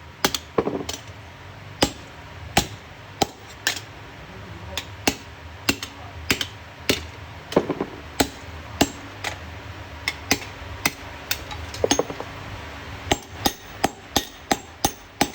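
Blacksmith's hammer striking steel while forging an axe head: a run of sharp, separate blows at an uneven pace, coming faster near the end.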